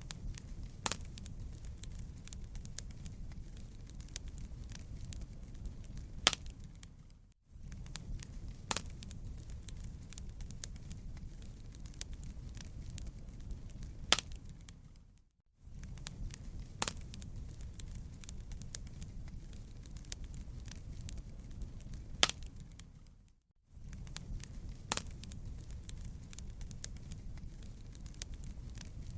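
Wood fire crackling in a fireplace: a low steady rumble with scattered sharp pops and snaps. The sound fades out briefly about every eight seconds and starts again with the same pattern of pops, a short recording played in a loop.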